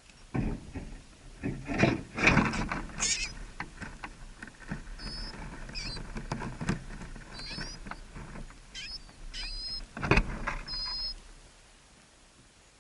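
Rustling, scratching and knocking with sharp clicks, as of birds moving about, with short high chirps of a small bird several times from the middle on. It all stops about a second and a half before the end.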